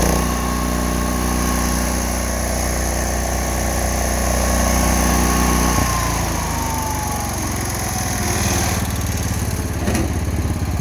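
Allis-Chalmers 712H garden tractor's 12 hp Kohler single-cylinder engine running at high speed. About six seconds in it is throttled down, and the engine note and a thin whine fall in pitch together.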